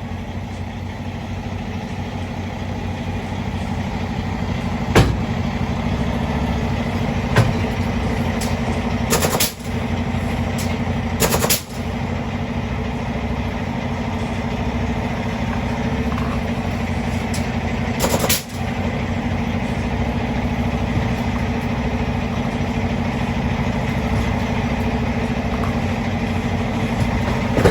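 Semi-truck diesel engine running steadily while the tractor backs under a trailer. Two sharp clicks come a few seconds in, then three short hisses of air.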